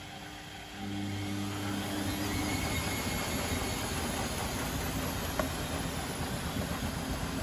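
Privileg Sensation 952 S top-loading washing machine: about a second in, a pump starts with a low hum, and then a steady whir builds with faint rising tones, typical of the drum spinning up.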